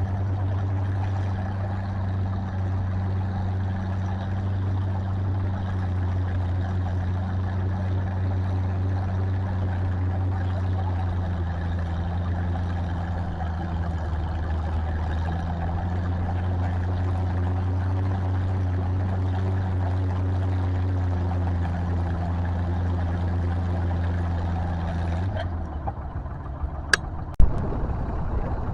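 Tractor engine running at a steady pitch, then dropping away suddenly near the end, followed by a single sharp click.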